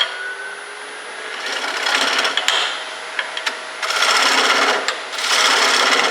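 Sandpaper held by hand against a wood bowl spinning on a lathe, rasping in three passes of about a second each over the lathe's steady faint whine.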